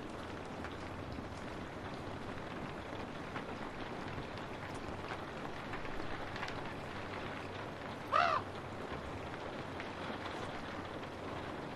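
Steady rain falling on a window, a continuous hiss with faint scattered drop ticks. About eight seconds in a crow caws once, briefly.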